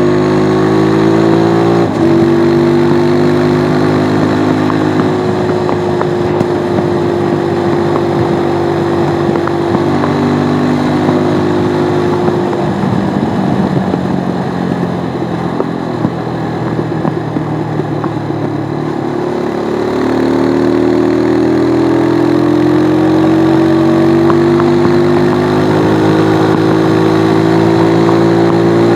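Stels Flex 250's single-cylinder motorcycle engine under way. Its pitch climbs at first and changes abruptly about two seconds in, as at a gear change, then holds. It turns rough and lower through the middle, as when the throttle is closed, and climbs steadily again over the last third as the bike accelerates.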